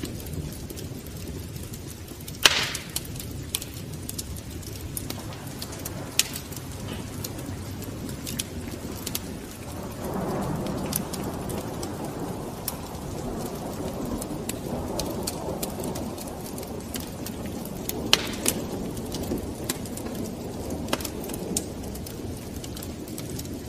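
Wood fire in a fireplace crackling, with scattered sharp pops over a low rushing sound of the flames. The rush grows louder about ten seconds in, and two pops stand out, one early and one near the end.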